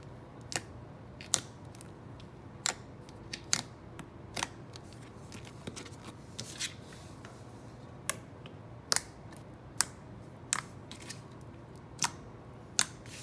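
Thick, glossy slime with foam chunks and foam beads being squeezed and poked by hand, giving sharp clicks and pops at irregular intervals, about one a second.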